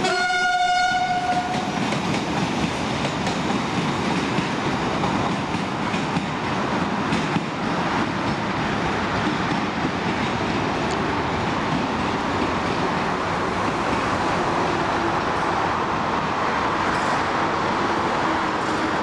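A single horn note sounding for about a second and a half at the start, then the passenger coaches of a narrow-gauge diesel train rolling away with a steady clatter of wheels on rail joints.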